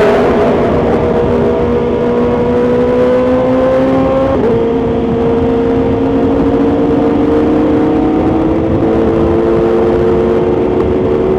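BMW S1000XR's inline-four engine through a full Akrapovic titanium exhaust, heard from onboard while riding: a steady exhaust note whose pitch climbs slowly as the revs build, with a brief step in the note about four seconds in, over constant wind and road rush.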